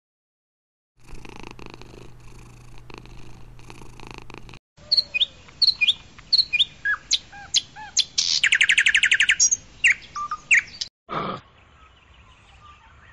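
Birds in a flock calling: a string of sharp separate chirps and whistles, and a fast trill of evenly spaced notes lasting over a second, the loudest part. Before them, after about a second of silence, a low steady hum for a few seconds; a short burst of sound comes near the end.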